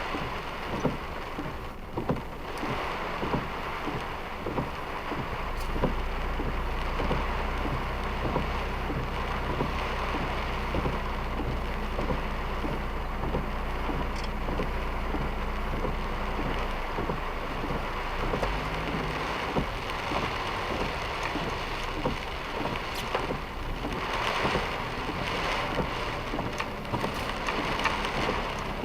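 Heavy typhoon rain pelting a moving car, a dense pattering of drops over the hiss of the downpour. A low hum from the vehicle comes in a few seconds in and fades out past the middle.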